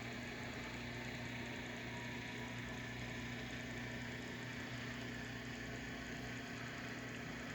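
A steady, unchanging machine hum with a low buzz and a faint hiss underneath.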